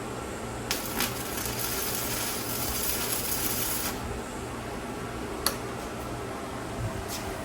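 Arc welder laying a tack weld: a crackling, buzzing arc for about three seconds, starting just under a second in, over a steady low hum. A few sharp clicks follow.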